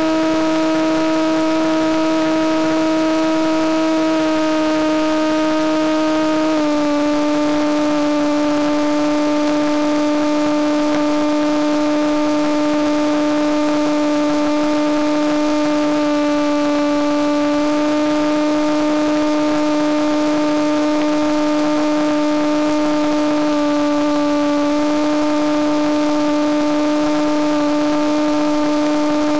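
Electric motor and propeller of a Penguin FPV model airplane droning steadily in flight, over a steady hiss. The pitch steps down slightly about six and a half seconds in, as the throttle eases.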